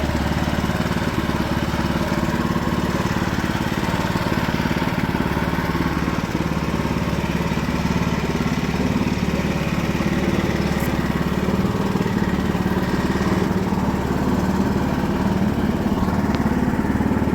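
Small engine of a self-propelled boat trailer running steadily at an even speed.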